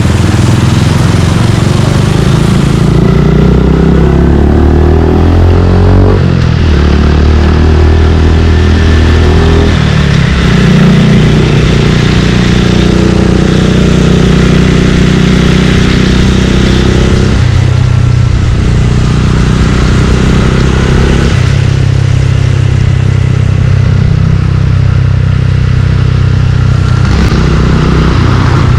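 Suzuki Gixxer 155 single-cylinder engine running through an aftermarket exhaust while riding. The engine note rises and falls as the bike accelerates and eases off, with several sudden changes in pitch.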